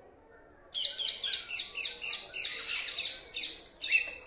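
A bird calling in a fast run of loud, high-pitched chirps, about three a second, starting just under a second in.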